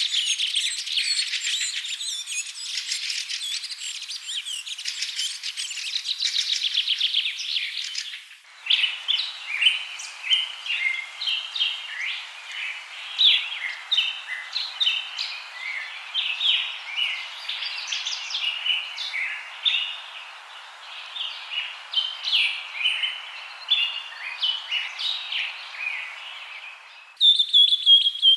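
Birds chirping and singing, a dense rapid twittering at first, then separate short chirps after an abrupt change about 8 seconds in, with another sudden change near the end.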